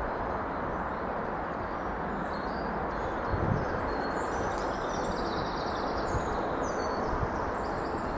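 Small birds chirping in short high phrases over a steady background rush, with one brief low bump about three and a half seconds in.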